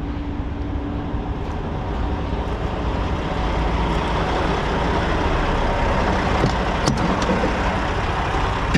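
Semi truck running, its steady rumbling noise growing louder over the first few seconds and then holding.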